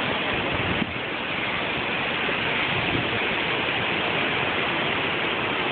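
Hurricane rainstorm: a steady, even rushing of heavy rain and wind.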